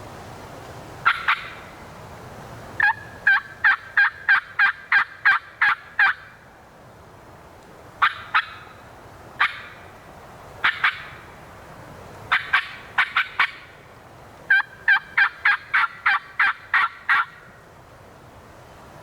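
Hen turkey yelps made on a turkey call: runs of about eight sharp, raspy yelps, with single and paired notes between the runs.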